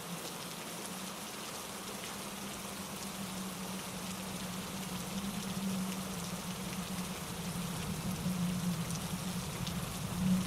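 Steady rain falling, with wind through the trees and a mountain stream tumbling over rocks underneath; a low, even rush with faint scattered drop ticks.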